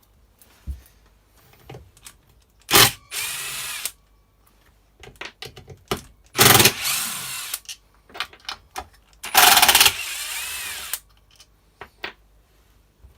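Compressed-air blow gun fired in three blasts, each with a sharp onset and then about a second or more of steady hissing, blowing years of built-up gunk off a strimmer engine. Light handling clicks come between the blasts.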